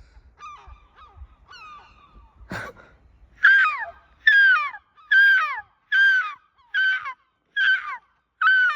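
Gulls calling. A few faint calls come first, then a brief harsh burst. From about three and a half seconds in there is a loud run of seven sharp calls, each dropping in pitch, coming about one a second.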